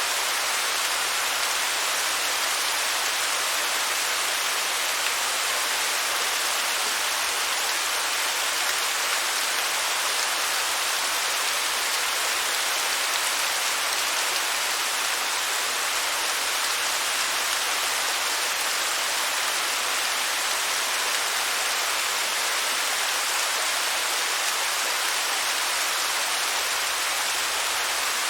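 Waterfall: a steady, even rush of falling water, high and hissing with little low rumble.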